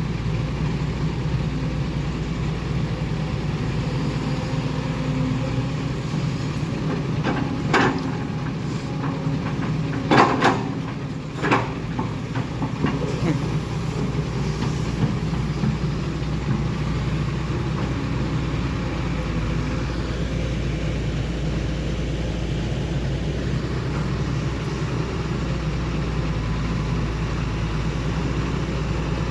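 Heavy diesel engine of earthmoving machinery running steadily. A few loud knocks come about 8 seconds in and again around 10 and 11 seconds in.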